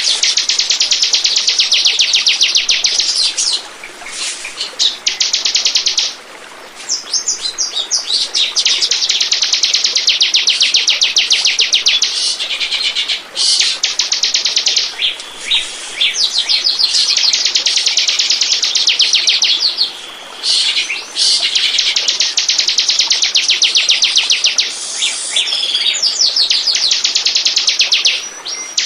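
Bar-winged prinia (ciblek) singing: long, rapid, high-pitched trills of quickly repeated notes, in phrases a few seconds long separated by short pauses.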